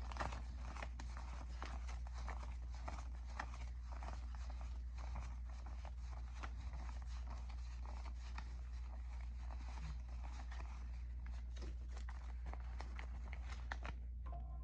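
Money being counted by hand: a continuous run of soft rustles and small clicks over a steady low hum.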